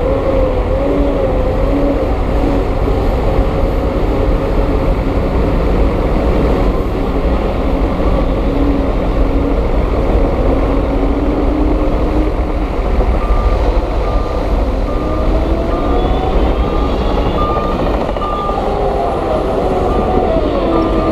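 Heavy diesel earthmoving machinery running with a steady deep rumble, its engine pitch wavering up and down. From a little past halfway, a reversing alarm beeps repeatedly at an even pace.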